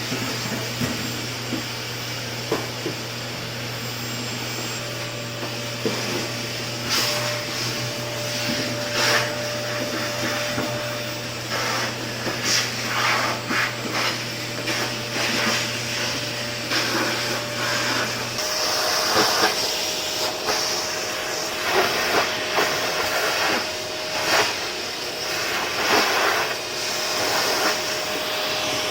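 Vacuum cleaner running steadily while cleaning, with frequent short clicks and knocks as it is pushed around. A low hum under the motor noise drops out about two-thirds of the way through.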